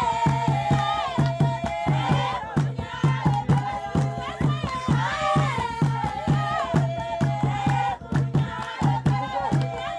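Traditional folk music: several voices singing over a quick, steady drum beat.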